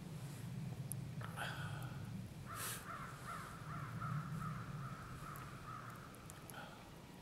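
A bird calling outdoors: one short harsh call, then a longer wavering run of calls that stops about a second before the end, over a steady low rumble.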